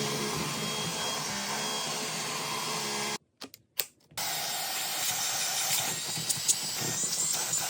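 Vacuum cleaner running steadily, cut off abruptly for about a second a little past the middle, then running again with scattered sharp clicks and rattles.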